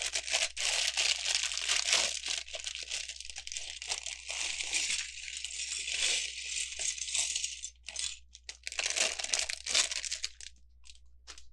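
Plastic bag of LEGO pieces being handled and torn open, with dense crinkling for about eight seconds, a brief pause, and a second shorter burst of crinkling. A few light clicks follow near the end.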